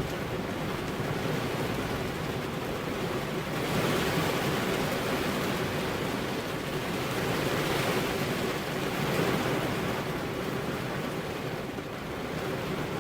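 Heavy rain falling as a steady hiss, growing heavier about four seconds in and easing off near the end.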